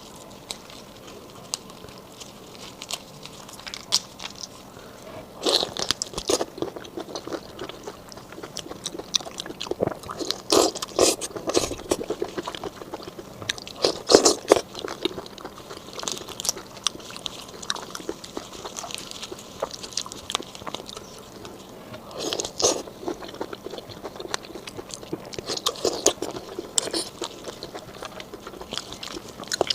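Close-up eating of raw marinated black tiger prawns: bursts of crunching and biting with wet chewing in between, several times over, separated by quieter stretches.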